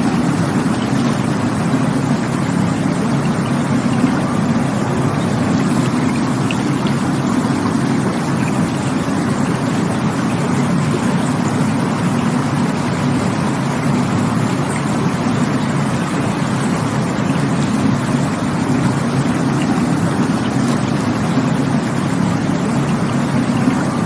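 Rushing water, a steady, unbroken rush that stays even throughout.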